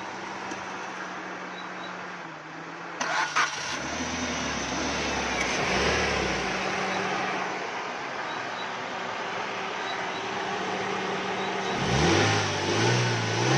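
A Suzuki Swift's 1.3 engine is switched off and started again, then settles to an idle. It is revved briefly twice near the end, and with its misfire cured it runs smoothly.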